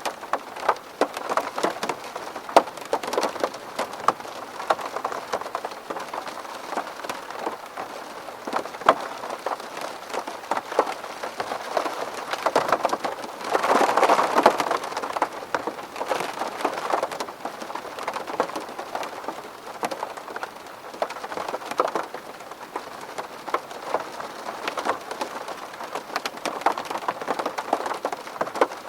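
Rain falling on a window pane: a steady patter with many sharp ticks of single drops, growing heavier and denser for a couple of seconds about halfway through.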